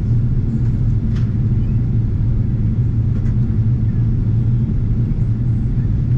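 Steady low cabin drone inside a Boeing 777-300ER, from its GE90 engines and the airflow over the fuselage, even and unchanging, with a few faint clicks.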